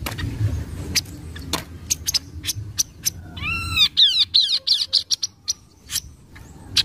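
Kaso-kaso bird calling: a string of sharp, clicking notes, with a fast run of arched whistled notes about three and a half seconds in.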